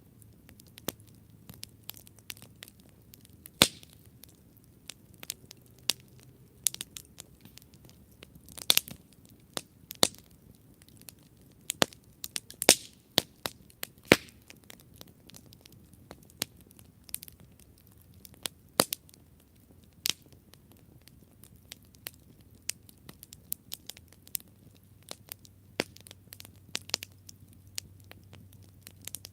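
Campfire burning, the wood crackling with irregular sharp pops and snaps, a few louder pops among them, over a low steady rumble of the flames.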